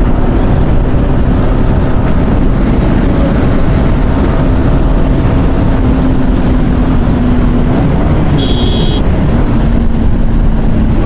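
Yamaha R15 V4's single-cylinder engine running at a steady highway cruise under heavy wind noise on the helmet microphone; the engine note dips briefly and climbs again about eight seconds in. A short high-pitched beep sounds just after that.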